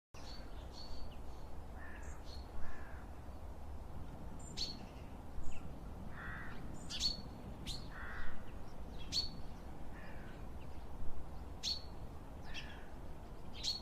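Birds calling: short, sharp, high calls every second or two, with a few softer, lower, harsher calls in between, over a low steady rumble.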